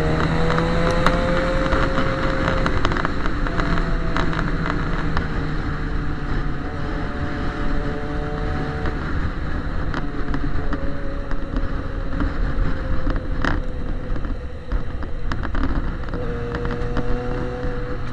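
Yamaha XJ6 motorcycle's inline-four engine running through a straight-pipe exhaust at low, fairly steady revs, its pitch drifting gently up and down, with wind noise on the microphone.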